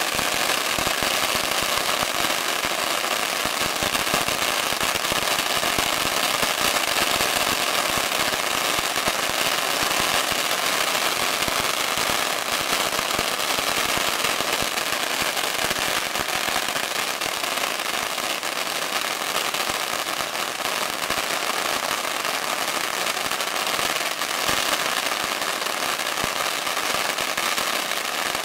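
A long roll of firecrackers going off in a continuous rapid crackle of tiny pops, with no pauses.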